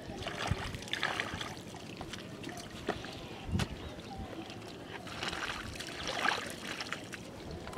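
Shallow muddy water sloshing and splashing in uneven bursts, with scattered small knocks.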